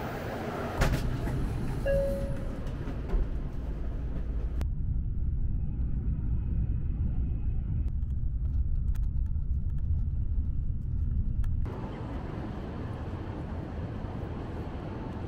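A Shinkansen bullet train running along a station platform, a rushing sound over a low rumble; it cuts to the deep, steady rumble inside a moving Shinkansen car with a few light clicks of a plastic bento lid being lifted, and then to open city ambience.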